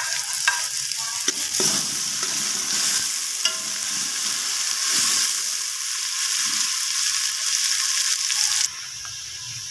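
Sliced onions and ginger-garlic paste sizzling in hot oil in a metal pot, stirred with a metal spoon that scrapes and clicks against the pot. The sizzle drops to a quieter hiss near the end.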